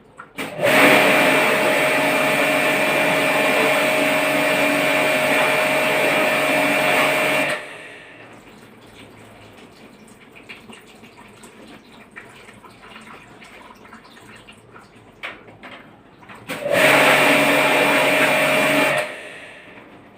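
Electric high-pressure water-jet pump running twice, first for about seven seconds and then for about two, spraying water to wash a split AC's indoor unit during a service. It starts and cuts off abruptly each time, with a steady motor hum under the spray.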